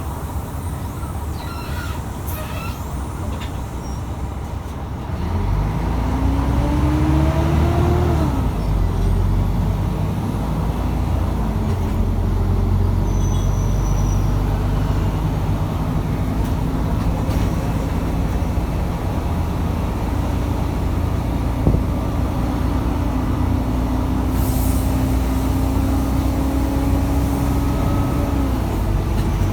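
Mercedes-Benz O500UA articulated bus's Bluetec 5 diesel engine idling low, then pulling away about five seconds in. The revs climb and drop back at a gear change about three seconds later. It then runs steadily under load with its pitch slowly rising, and eases off near the end.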